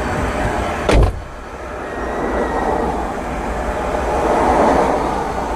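Freight train of tank cars and covered hoppers rolling past, with a steady rumble of steel wheels on rail. There is a sharp bang about a second in, and the rumble grows louder toward the end.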